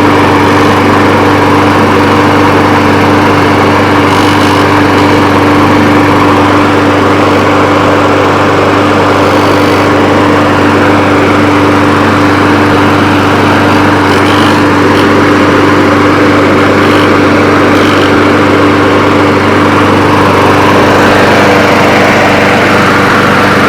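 Briggs & Stratton 675 Series 190 cc engine on a walk-behind lawn mower, running steadily without a break.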